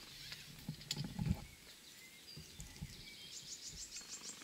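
Quiet outdoor ambience with a few low thumps about a second in, then near the end a small bird's fast trill of high, evenly spaced chirps.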